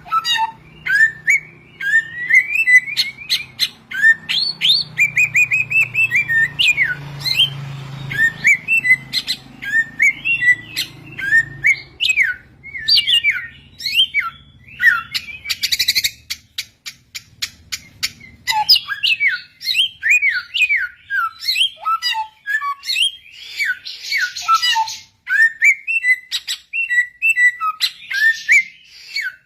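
A samyong songbird singing a fast, unbroken run of varied chirps and whistled notes, with a few short harsh, buzzy phrases mixed in.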